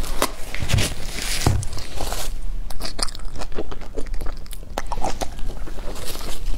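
Close-miked eating sounds: chewing and biting, with irregular crisp clicks and wet mouth noises.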